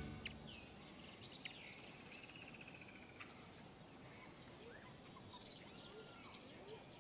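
Several wild birds calling over a faint background hiss: short high chirps repeated every second or so, brief rising and falling whistles, and a quick trill about two seconds in.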